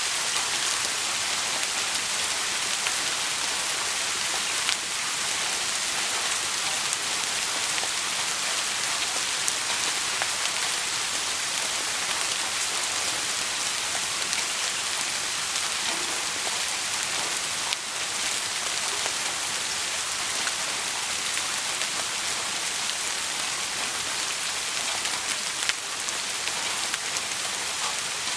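Steady rain falling, an even hiss of drops with scattered small ticks.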